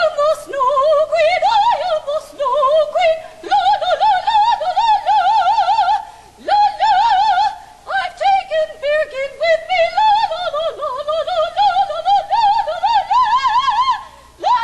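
A voice singing a melody in an operatic style with heavy, fast vibrato, in phrases that rise and fall and break off briefly a few times.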